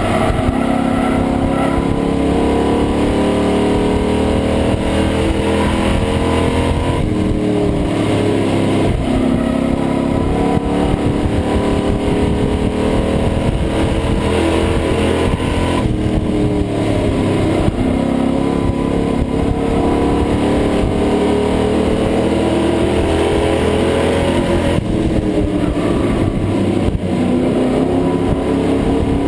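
Race truck's engine, heard from inside the cab at racing speed. Its pitch repeatedly dips and climbs again, about every eight seconds, as the throttle is lifted for the turns and reapplied on the straights.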